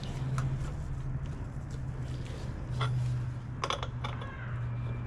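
A few sharp metal clinks of hand tools and parts being handled, over a steady low hum.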